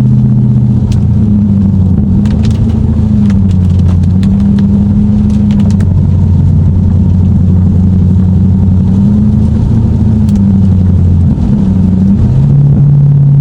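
Lexus car engine running at a steady drive, its note dropping to a lower pitch about a second in, wavering a little, and rising again near the end.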